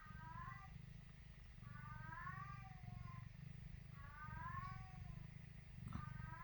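Newborn Maine Coon kitten mewing: four thin cries about two seconds apart, each rising and then falling in pitch.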